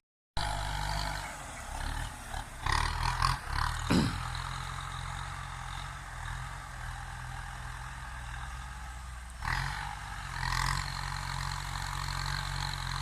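Kubota M9540 tractor's diesel engine running steadily at a constant speed, with short bursts of louder noise about three seconds in and again about ten seconds in.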